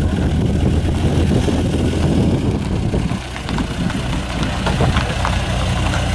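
A car engine idling steadily, with a low, even hum and a few faint ticks in the second half.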